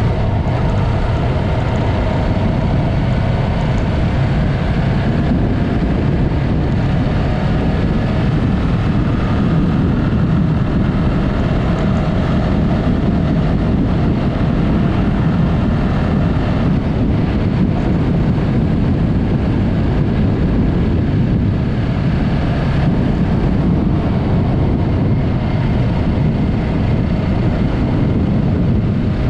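Yamaha MT-03 motorcycle with a Mivv aftermarket exhaust running at a steady cruising speed, its engine note under heavy wind rush on the helmet- or bike-mounted camera microphone.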